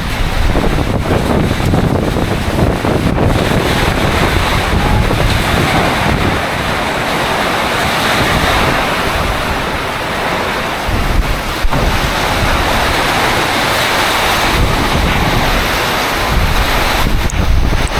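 Loud, steady rushing noise with gusts of wind buffeting the microphone and a heavy low rumble at times, typical of a tropical storm's wind.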